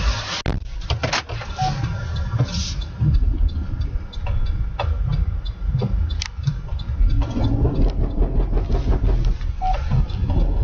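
A vehicle's steady low road-and-engine rumble, broken by a few scattered sharp clicks and knocks.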